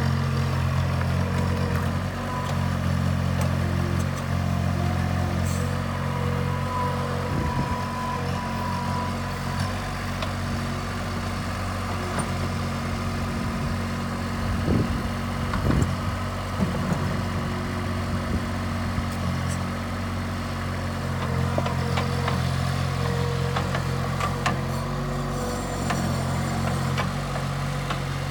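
Bobcat 463 skid-steer loader's diesel engine idling steadily, with a few short knocks about halfway through.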